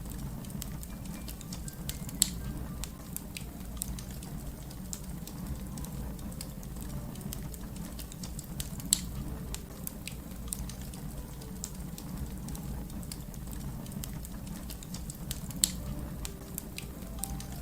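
Wood fire crackling: a steady low rumble of flames under constant small crackles, with three louder pops about six to seven seconds apart.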